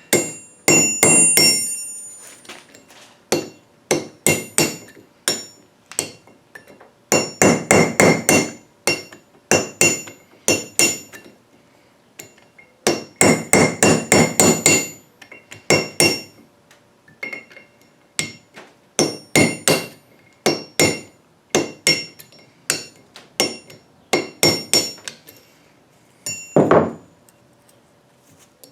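Hammer striking a small punch or chisel against steel in rapid bursts of sharp metallic taps with a high ring, with a few seconds' pause between bursts and a heavier blow near the end: driving at a broken ring-gear bolt to work it loose.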